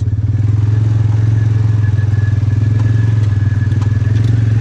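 Polaris utility vehicle's engine running at a steady low speed, with a fast even pulse and a faint steady high whine above it.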